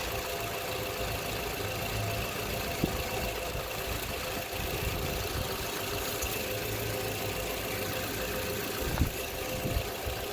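2012 Toyota RAV4 engine idling steadily, warm and running for a transmission fluid level check, with two light clicks about three seconds and nine seconds in.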